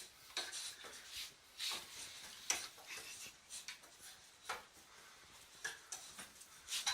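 Faint, irregular rustling and light clicks, a few every second.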